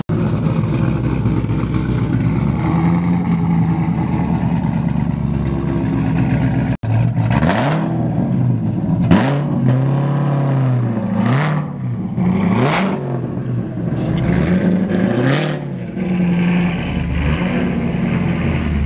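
A high-performance car engine running steadily, then, after a cut, revved hard in several quick rising-and-falling blips, and settling back to idle near the end.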